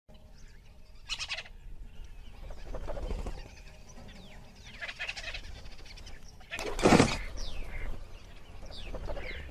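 Birds calling in short falling chirps, with two brief sharp noises, the louder one about seven seconds in.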